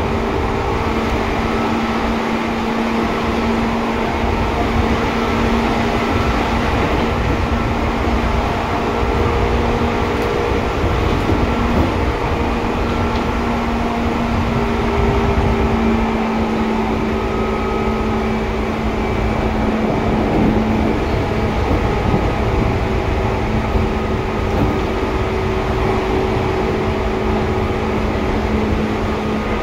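Seibu 2000 series electric commuter train running at a steady speed, heard from on board: a constant rumble of wheels on rail with a steady motor and gear hum.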